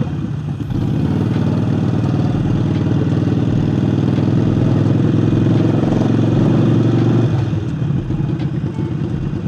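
Harley-Davidson Forty-Eight's air-cooled V-twin, fitted with a new aftermarket air intake, running steadily under throttle while riding; about seven seconds in the throttle is eased and the engine note drops.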